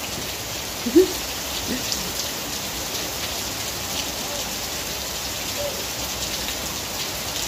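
Steady rain falling on a wet yard and puddles, an even hiss of drops. A short pitched sound stands out about a second in.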